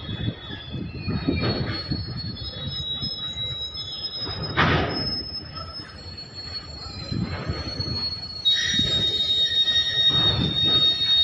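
Freight train wagons rolling slowly past, their wheels squealing in steady high-pitched tones over a low rumble, with a few knocks from the wheels. The squeal gets louder about eight and a half seconds in.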